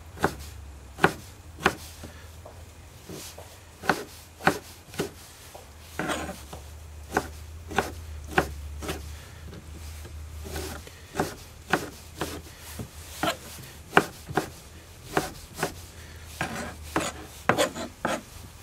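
Kitchen knife cutting Roma tomatoes on a cutting board: irregular sharp knocks of the blade meeting the board, about one or two a second.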